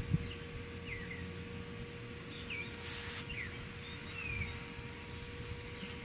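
Small birds calling: several short, high chirps, each sliding down in pitch, spaced a second or so apart, over a faint steady hum.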